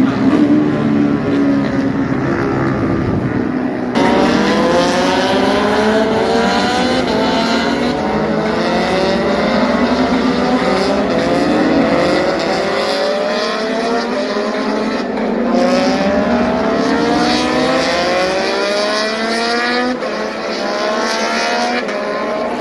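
Racing motorcycle engines at high revs as the bikes accelerate past on a circuit. Each engine note climbs in pitch, drops back and climbs again, over and over, as the riders shift up through the gears. The sound changes abruptly about four seconds in.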